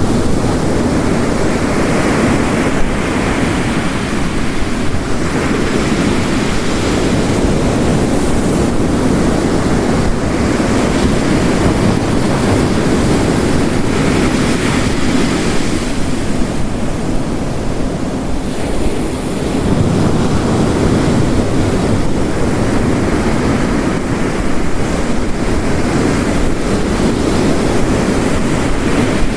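Ocean waves crashing on a coast, surging and falling back every few seconds, under the steady hiss of heavy rain.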